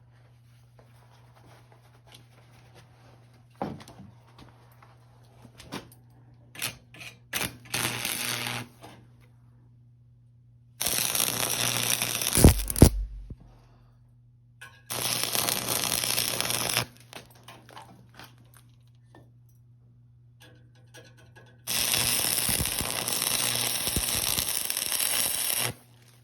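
A few light knocks and taps, then three bursts of steady hissing noise that start and stop abruptly, the last about four seconds long.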